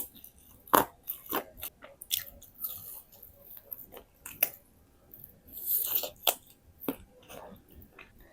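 A person eating close to the microphone: irregular bites, crunches and wet chewing with mouth clicks and smacks.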